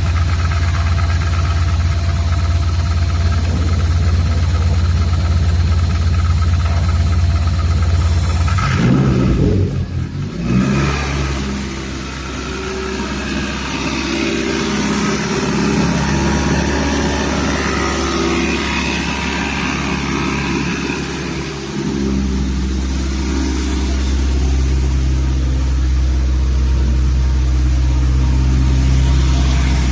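Mitsubishi 4B12 inline-four engine running on a test stand. Its note changes about nine seconds in, shifts again after about twenty-two seconds, and runs steadily from there.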